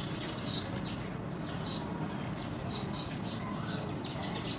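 Small birds chirping in the background: short, high chirps repeating irregularly, over a steady hiss.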